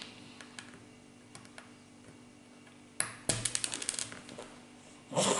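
Small plastic construction-kit parts clicking and clattering as they are handled and sorted: scattered light clicks, a quick run of about ten clicks a little past halfway, and a louder rustling clatter near the end.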